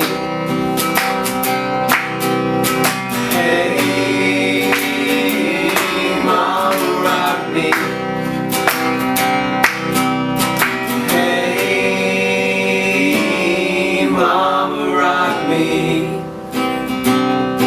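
Live acoustic music: steady acoustic guitar strumming through an instrumental break between choruses, with sustained melody notes held over the chords.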